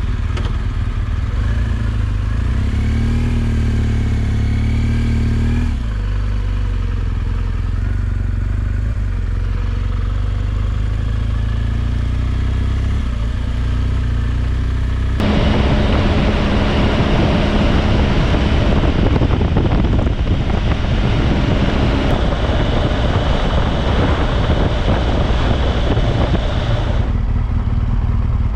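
Motorcycle engine running as the bike rides off; about halfway through it gets louder with a rushing noise added on top, then drops back near the end.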